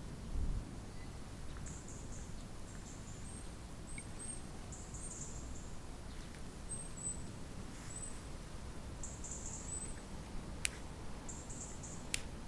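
Small songbirds giving short, very high-pitched chirps in repeated little clusters over a steady low wind rumble, with two sharp clicks near the end.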